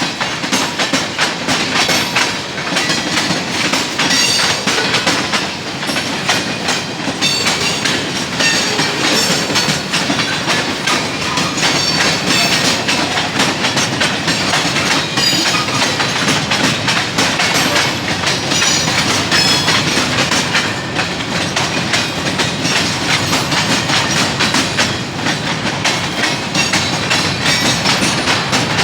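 CSX freight train cars rolling past, a steady loud rush of wheels clattering over the rail joints with faint flange squeaks.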